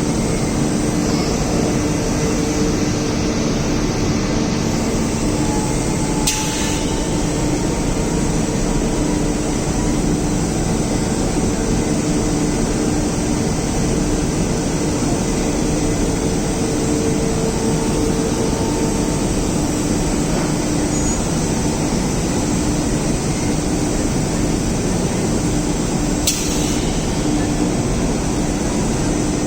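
Wagon tippler machinery running: a loud, steady mechanical hum with steady drive tones. There are two sharp clicks, one about six seconds in and one near the end.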